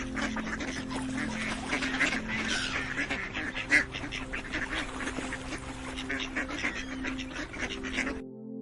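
Ducks quacking repeatedly, short calls following one another quickly, with one louder call a little before the middle.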